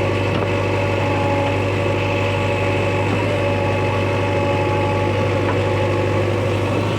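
Diesel engine of heavy earthmoving or farm machinery running steadily with an even low hum.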